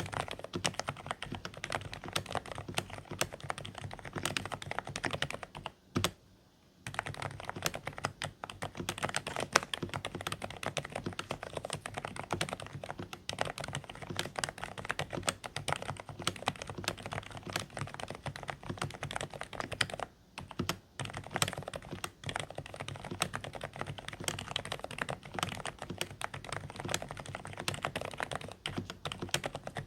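Continuous fast typing on a Dareu A104 Pro keyboard with silent beige switches. The keystrokes are quiet and somewhat muffled. The typing pauses briefly about six seconds in and again around twenty seconds.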